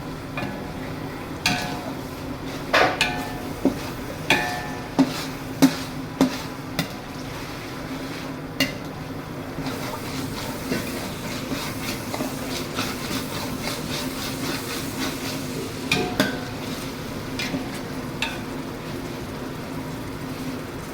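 A metal ladle stirring ginger-garlic and mint-coriander paste frying in oil in a large cooking pot. It clanks against the pot in a quick run of strikes over the first seven seconds and a few more later, over a steady low hum and frying sizzle.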